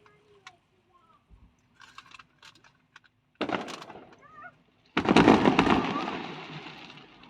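Fireworks shells bursting: one boom about three and a half seconds in, then a louder burst about five seconds in whose rumble and crackle fade away over the next two seconds. A few faint crackles come before them.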